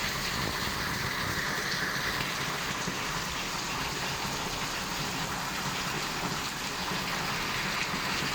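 Rain falling steadily in a thunderstorm, an even hiss with no thunderclaps.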